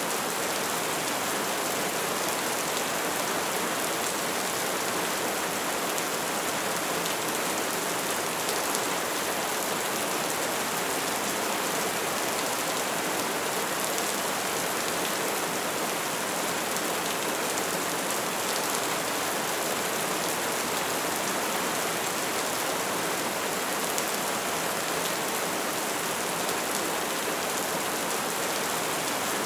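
Steady soft rain falling on surfaces, an even hiss of many drops with a few individual drops ticking through.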